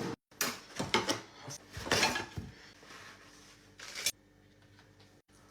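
Kitchen handling sounds: a few short rustles and knocks, the longest about two seconds in and a sharp one about four seconds in, then quiet.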